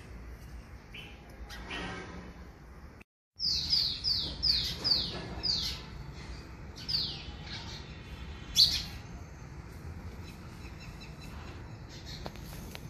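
A bird chirping: after a brief dead-silent gap about three seconds in, a quick run of about eight falling chirps, then a few single chirps, over faint low background noise.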